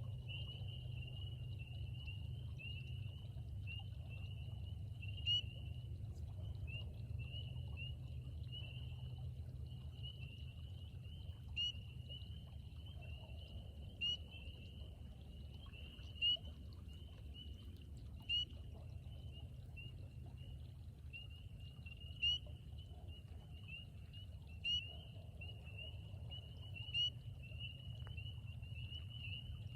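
Chorus of spring peepers: a steady high-pitched mass of overlapping peeps, with a nearer frog giving a loud single peep about every two to three seconds, over a low steady rumble.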